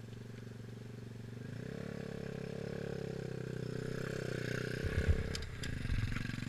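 A dirt bike running: its pitch climbs as it speeds up, holds, then drops back off the throttle. Near the end come low thumps and a few sharp knocks, the loudest part.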